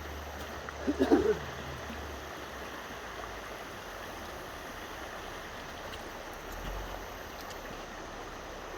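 Steady rush of river water flowing below a dam. About a second in, a short voice-like call cuts in briefly, and a low hum fades out soon after.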